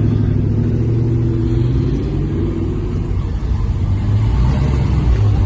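Loud car engine running at low revs, a steady low note for about three seconds that then turns uneven.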